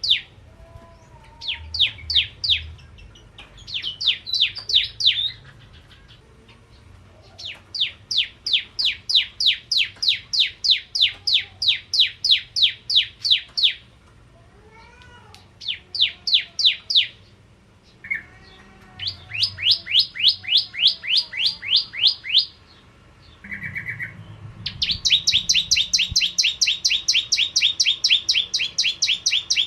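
Bar-winged prinia singing: long bursts of rapid, evenly repeated sharp chirps, several a second, each bout lasting a few seconds with short pauses between. Faint softer, lower call notes sound between the bouts.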